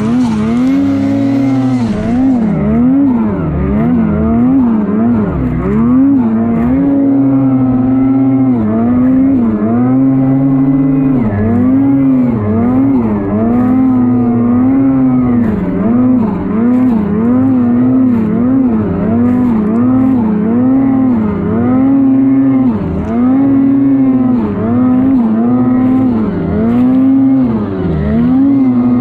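Lynx Shredder RE snowmobile's two-stroke engine running hard, its revs dipping and climbing back again and again, about once a second, as the throttle is worked.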